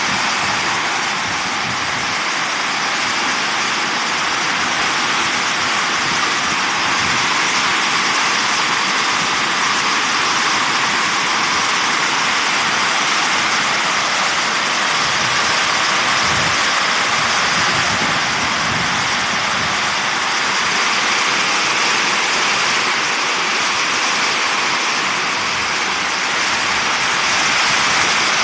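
Heavy rain pouring down steadily in a rainstorm.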